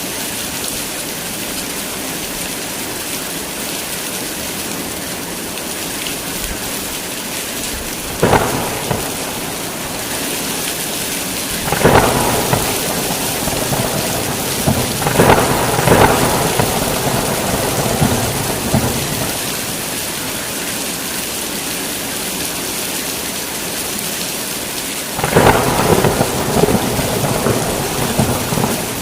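Heavy rain falling steadily in a thunderstorm, with thunder: a sharp crack about eight seconds in, a longer rolling peal with several cracks through the middle, and another crack trailing into rumbling near the end.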